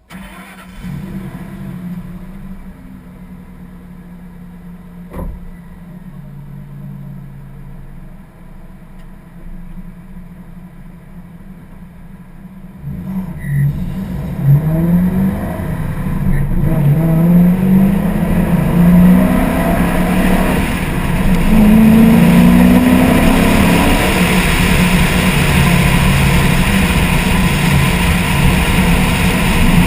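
1999 Mustang SVT Cobra's 4.6-litre DOHC V8 running at a low, steady note, then about thirteen seconds in pulling harder, its pitch rising in several sweeps with breaks between them as it goes up through the gears. Wind rushing over the sealed camera case grows loud as speed builds, and there is a single sharp click about five seconds in.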